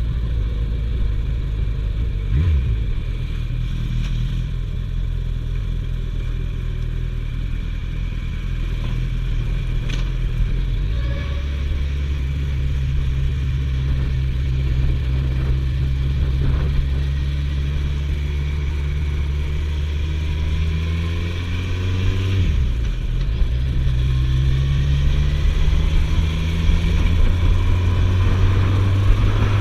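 Suzuki GSF1250S Bandit's inline-four engine running under way. It pulls harder and louder about eleven seconds in, drops briefly a little past twenty seconds, as at a gear change or easing off, then climbs again toward the end.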